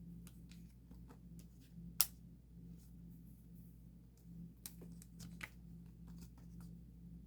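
Photocards and plastic card sleeves being handled and sorted: scattered light clicks and rustles, with one sharper tap about two seconds in.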